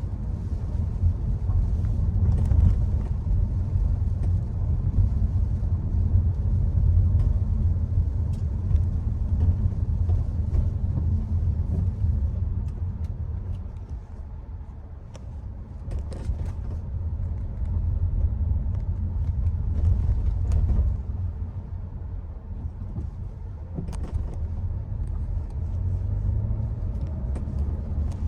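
Low, steady road rumble of a Hyundai Creta being driven, easing briefly about halfway through, with a few faint ticks.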